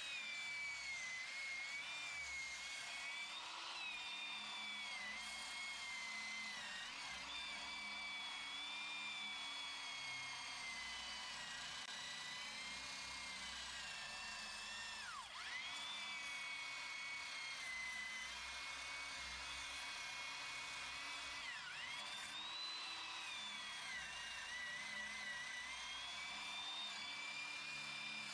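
Old Black & Decker 1/4-inch electric drill spinning a wire wheel against a rusty steel exhaust pipe, a steady high whine over the scrubbing of the wire brush. The motor's pitch wavers and drops sharply twice, about halfway and about three-quarters in.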